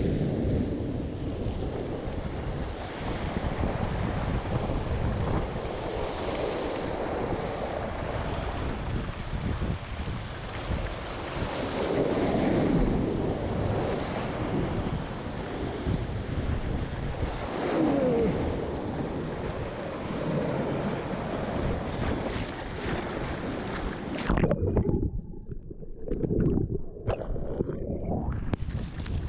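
Typhoon-swell surf and rushing water, with wind buffeting the microphone. About three-quarters of the way through, the higher sounds cut out and it turns muffled, with low rumbling surges, before opening up again near the end.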